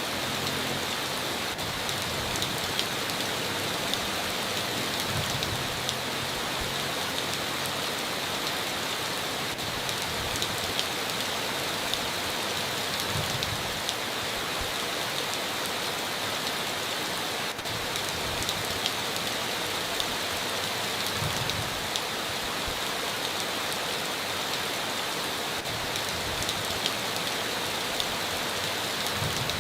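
Steady heavy rain on a tin roof: an even hiss dotted with many sharp drop ticks, with a few dull low thumps now and then.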